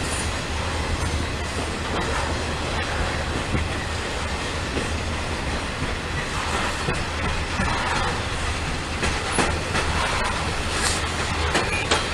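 A Norfolk Southern freight train rolling past, its wheels clattering over the rail joints over a steady low rumble. Sharper clicks and knocks come in the last few seconds.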